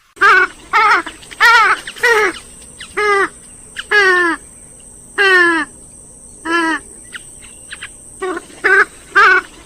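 Grey-headed swamphen calling: a run of about a dozen loud, short calls, each dropping slightly in pitch, coming at irregular gaps of roughly half a second to a second.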